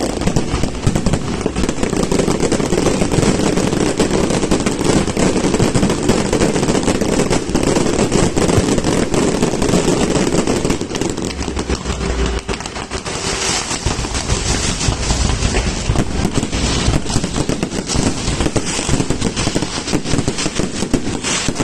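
Fireworks going off in a dense, rapid run of bangs and crackles with no break.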